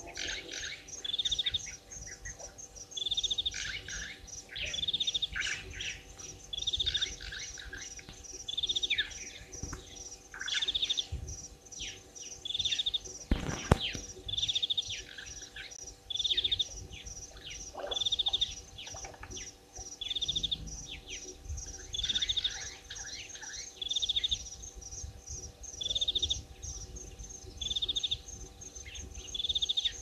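A bird repeating a short, high call about every two seconds, with softer lower chirps between, over a steady high insect trill. A single sharp click sounds about halfway through.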